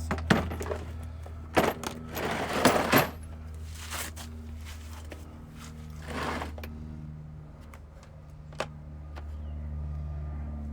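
Metal car parts clanking and clattering as they are handled and moved about: a few sharp knocks, a quick run of clanks, then a scrape, fewer toward the end. A steady low hum runs underneath.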